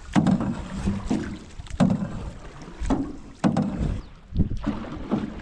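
Paddles dipping and pulling through shallow water from a small canoe, a stroke about once a second, each with a splash.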